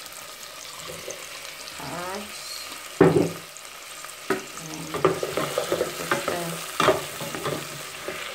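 Sliced onions, tomatoes and chilies sizzling in oil in an aluminium pot, with a loud clatter about three seconds in as sliced carrots are tipped in. From about four seconds on, a spoon knocks and scrapes against the pot as the vegetables are stirred.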